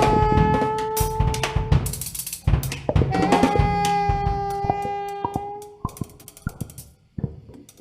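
Jazz band playing: a wind instrument holds long notes over a busy drum kit with snare and bass drum hits, the music dying away near the end.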